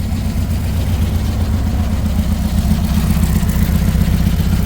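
A car engine running steadily close by, a low, fast-pulsing rumble.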